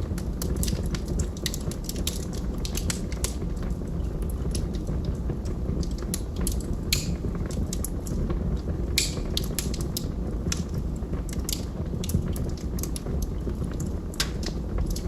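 Log fire crackling: irregular sharp pops and snaps over a steady low rumble of the burning wood.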